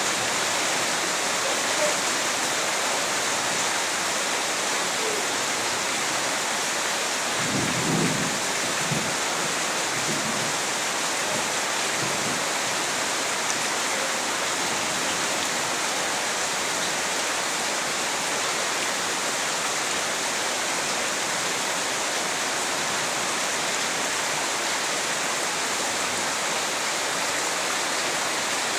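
Steady rain falling hard, an even hiss. About eight seconds in there is a brief low rumble, with a few fainter ones over the next few seconds.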